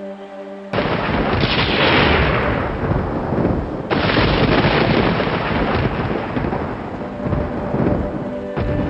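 Thunder cracks sharply about a second in and rolls on, with a second crash a few seconds later, then fades. Soft ambient music with steady held tones plays underneath and is heard on its own before the first crack and again as the rumble dies away.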